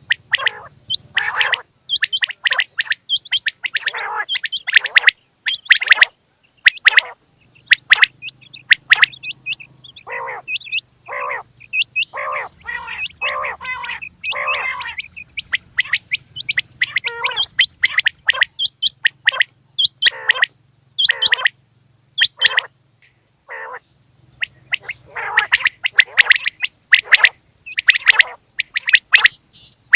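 Quail calling: series of short, sharp, rapidly repeated calls, with a few brief pauses between runs.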